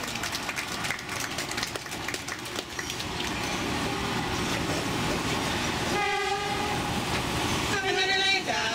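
Narrow-gauge train's wheels clattering over the rail joints, then the locomotive's horn sounds once, a steady chord for about a second and a half, about six seconds in. Singing comes in near the end.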